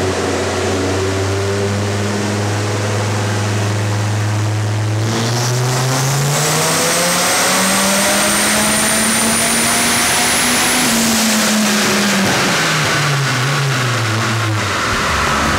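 Twin-turbocharged 8.0-litre V10 of a 1998 Dodge Viper GTS running under load on a chassis dyno. It holds steady revs for about five seconds, then the revs climb for about five seconds while a thin high whistle rises with them. The revs hold briefly and then fall away over the last few seconds.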